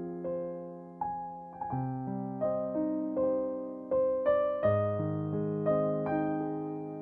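Slow, gentle piano music: single notes and low chords struck and left to ring and fade, a new note about every half second.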